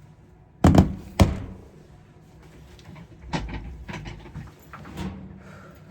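Two sharp knocks close together about a second in, followed by several lighter taps and clicks, like objects being handled and set down.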